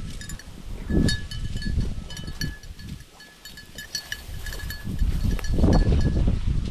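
A bird dog's small collar bell jingling in irregular shakes as the dog works through cover, over low rustling and wind rumble, quieter for a moment about three seconds in.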